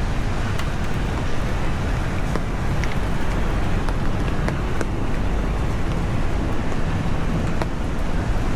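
Heavy rain falling on a city street: a steady, even hiss sprinkled with scattered sharp ticks of drops, over a constant low rumble.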